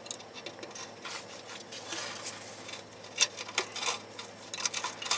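Light, scattered clicks and clinks of hand tools being handled, a few about three seconds in and a quick cluster near the end: a mechanic working with sockets and wrenches.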